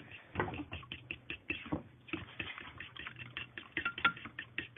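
Eggs with milk and seasoning being beaten in a bowl: a utensil clicking rapidly against the bowl, several quick taps a second.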